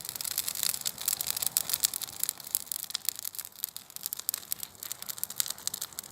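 Dry Christmas tree burning on a bonfire, its needles and twigs crackling and popping in a rapid, dense stream of sharp cracks.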